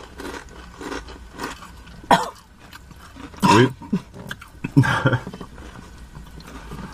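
People chewing crunchy tortilla chips, broken by three short vocal outbursts about two, three and a half and five seconds in. The outbursts are reactions to the burn of a ghost pepper seasoned chip.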